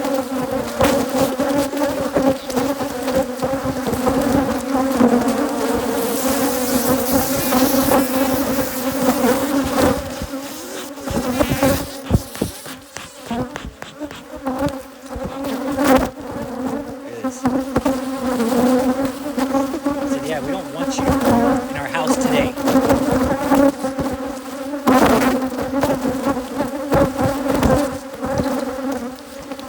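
A mass of honeybees from a hybrid Africanized colony buzzing around an opened hive: a dense, steady hum with a low note and another an octave above. It is scattered with knocks, and eases a little for a few seconds in the middle.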